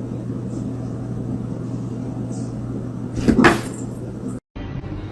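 A steady low hum with a single loud thump about three seconds in; the sound cuts off abruptly near the end.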